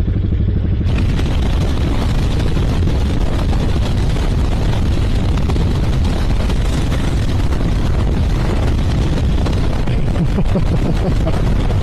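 Motorcycle under way, its engine rumble buried under heavy wind rush on the microphone that comes in about a second in and holds steady.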